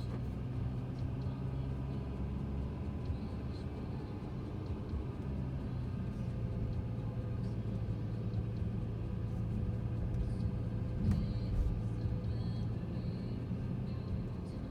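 Mercedes-Benz C300 (W205) on the move: a steady low engine drone with road rumble. There is a sharp click at the very start and a short thump about eleven seconds in.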